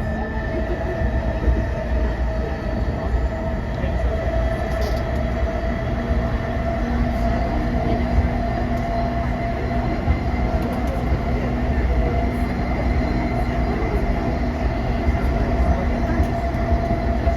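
JR East E233 series 5000-number electric train (set 517) running along the line: a steady rumble of wheels on rails, with steady tones from the drive equipment. A lower hum joins about six seconds in.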